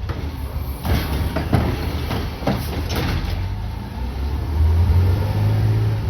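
CNG-powered Peterbilt 520 split-body garbage truck running, with several sharp metal clanks and bangs in the first half. The engine then swells louder about four and a half seconds in.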